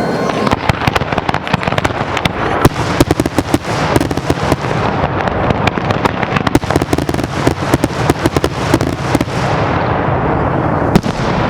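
Fireworks display going off in a rapid barrage of sharp cracks and bangs, many a second, for about nine seconds. The barrage then stops, and one last bang comes near the end.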